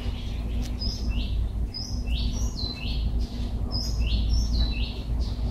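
A small bird chirping over and over: quick short notes that step down in pitch, two or three a second, over a steady low rumble.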